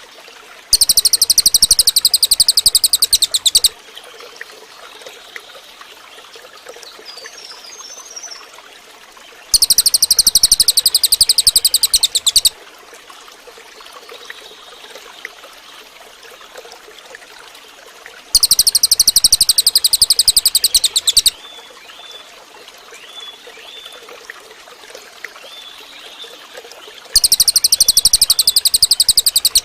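Cililin bird singing a loud, very high, rapid buzzing trill of about three seconds, repeated four times at even intervals. A steady trickle of running water and faint small chirps fill the gaps.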